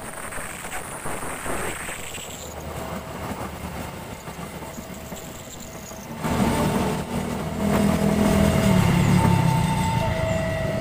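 Coaches of the Argo Muria passenger train running over the rails, with a high squeal fading in the first two seconds. About six seconds in, a much louder rumble starts, and a level crossing's warning alarm sounds in two alternating beeping tones.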